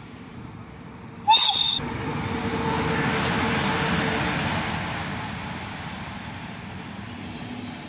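Electric locomotive giving one short, high horn blast about a second in, then the locomotive and its passenger coaches rolling past, loudest a couple of seconds later and slowly fading.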